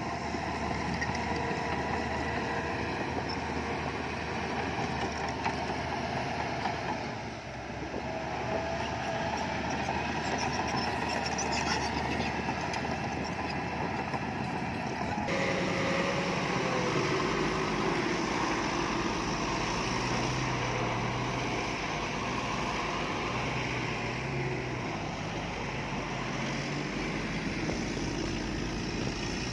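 Heavy earthmoving machinery's diesel engines running steadily. The sound changes abruptly about halfway through.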